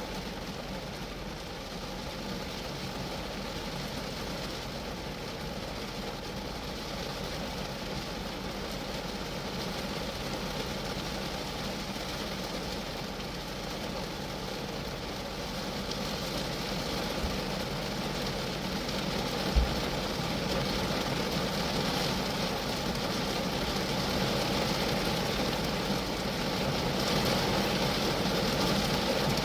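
Rain falling on a Geo Metro's body, a steady dense patter that grows heavier from about halfway in. A single dull low thump comes about two-thirds of the way through.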